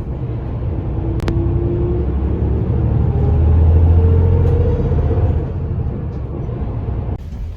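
Bus engine and drivetrain heard from inside the cabin: a loud low rumble with a whine that rises as the bus gathers speed, loudest in the middle, then eases and cuts off abruptly near the end.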